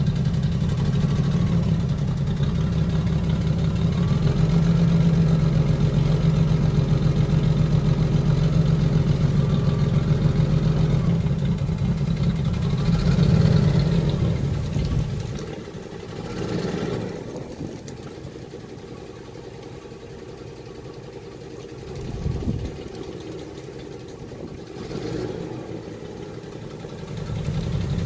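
Jaguar XJ-S engine running at a steady idle with a low, even rumble. About fifteen seconds in, the sound drops away sharply to a much quieter level with a few brief swells, and the loud engine sound returns near the end.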